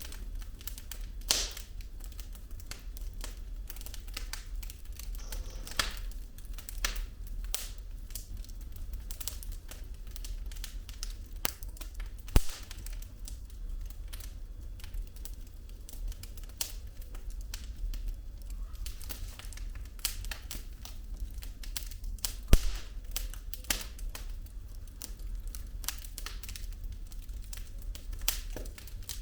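Wood fire burning in a fireplace: irregular crackling of burning logs with occasional sharper pops, three of them louder (about a second in, near the middle and about three quarters through), over a steady low rumble of the flames.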